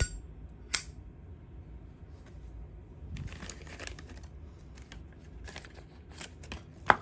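Zippo lighter being handled, with sharp metal clicks: one at the start, another under a second in, several more near the end and the loudest right at the end. A stretch of rustling handling noise comes around three seconds in.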